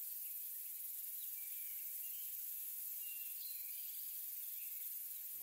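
Faint steady nature ambience: an even high hiss, insect-like, with a few faint short chirps scattered through it.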